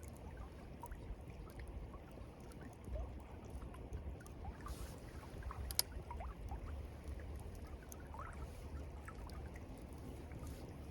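River water flowing and trickling, with small gurgles and clicks over a steady low rumble, and one sharp snap a little past halfway.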